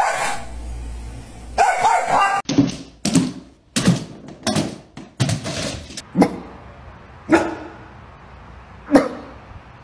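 A dog barking: a string of about eight single sharp barks starting a couple of seconds in, quick at first, then spaced further apart.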